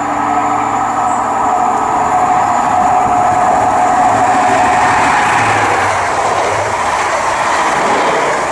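High Speed Train with Class 43 diesel power cars passing through at speed: the engine's steady whine as the leading power car approaches, then a wider rush of wheel and coach noise as the carriages go by.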